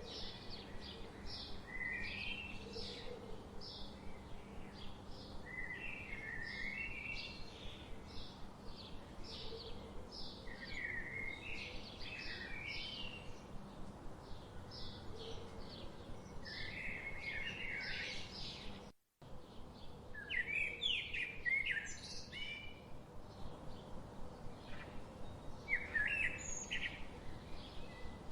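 Songbirds singing in a forest chorus. A steady run of short high notes, about two a second, runs under lower warbling phrases that break in every few seconds. The sound cuts out completely for an instant about two-thirds of the way through.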